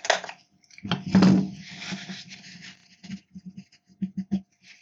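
Handling noises as console parts are worked on by hand: a click, a louder scrape and rustle about a second in, then a quick run of light knocks near the end.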